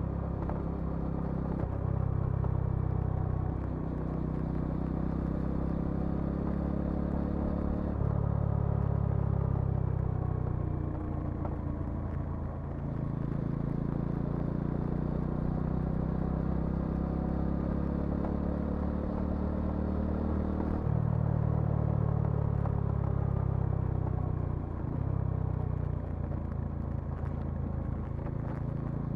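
Bajaj Dominar 400's single-cylinder engine and exhaust running on the move. The pitch climbs steadily over stretches of several seconds, with a few sudden steps in pitch and level as the rider works the throttle and gears.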